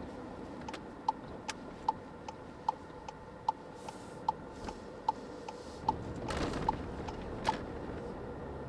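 Car's turn-signal indicator ticking in an even tick-tock, alternating loud and soft clicks about two and a half times a second, then stopping near the end. Steady road and rain noise in the cabin, with a brief rushing swell about six seconds in.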